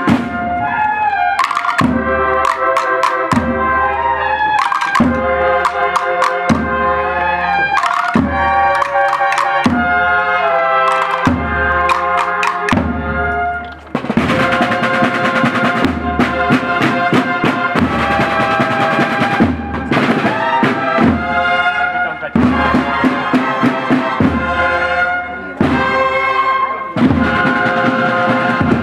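Brass and drum band playing a march, trumpets holding sustained notes over steady drum beats, with a short break about halfway through.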